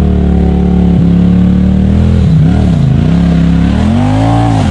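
Side-by-side UTV engine running steadily, then revving up and down several times as the throttle is worked on a muddy hill climb.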